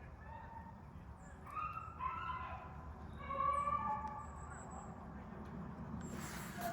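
A pack of rabbit-hunting dogs baying: several drawn-out, overlapping calls, loudest about three and a half seconds in, with a short burst of rustling noise near the end.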